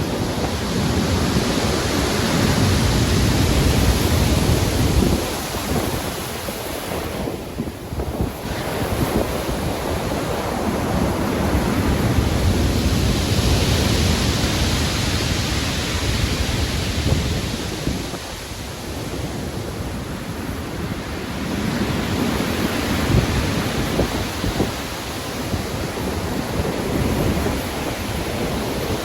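Rough sea in a storm: waves breaking and rushing in a continuous roar of surf, swelling and easing every several seconds, with deep rumbling surges and wind hiss.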